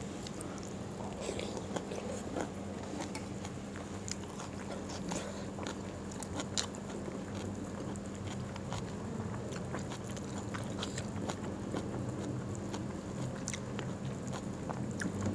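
A person chewing food with many small mouth clicks and smacks, over a steady low hum.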